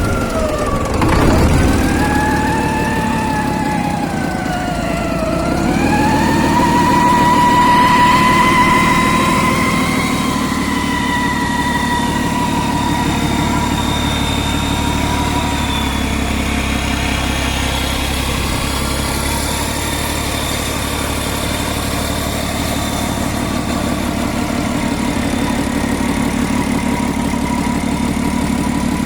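Scania DT12 420 straight-six diesel engine running at idle. A high whine over the engine dips, rises again about six to eight seconds in, then holds steady.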